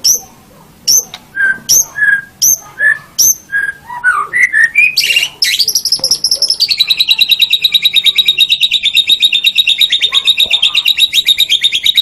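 White-rumped shama singing: a string of separate sharp whistled notes, a little over two a second, then a few rising notes, and from about halfway a long, fast, even trill.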